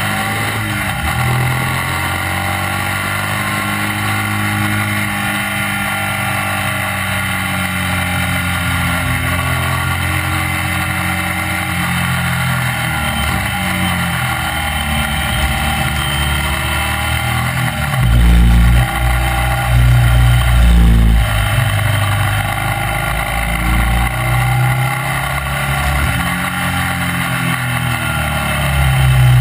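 Classic racing sidecar outfit's engine at race pace, heard on board: the revs rise and fall again and again as it accelerates and backs off through the bends, over a steady rush of wind and road noise. A heavier low rumble swells for a few seconds about two-thirds of the way through.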